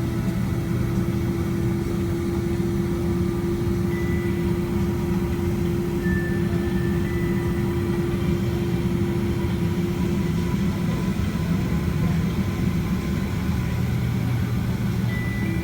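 Steady jet-engine hum and rumble of a Boeing 767-300ER heard inside the passenger cabin, the engines running at low, even power while the airliner taxis.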